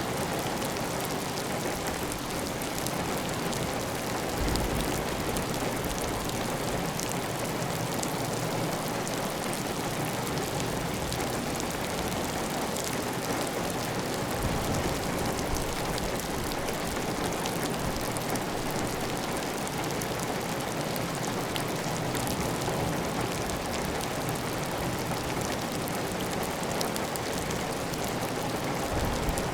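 Heavy rain falling steadily on a tiled roof, a dense even hiss with fine patter of drops and water running off the roof edge.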